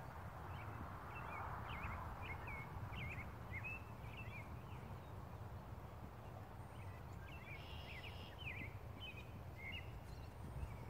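Wild birds chirping and whistling in short calls, in two spells, over a steady low background rumble.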